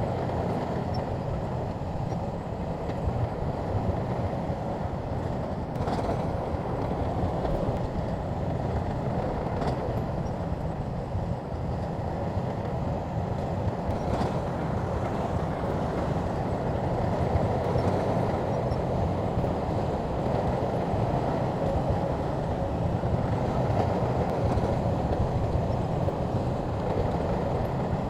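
Shantui crawler bulldozer working: a steady, dense mechanical rumble of its diesel engine and tracks, with three faint clicks spread a few seconds apart.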